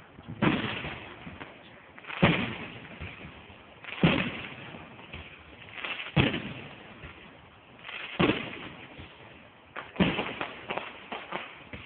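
Fireworks bursting: a loud bang about every two seconds, each trailing off in an echoing rumble, with a run of quicker, smaller crackling pops near the end.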